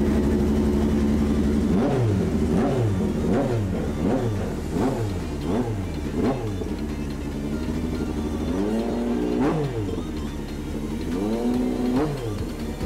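Moto3 race bike's 250 cc single-cylinder four-stroke engine running at a steady rev, then blipped over and over after about two seconds, the pitch rising and falling quickly many times, with two longer revs held briefly near the end.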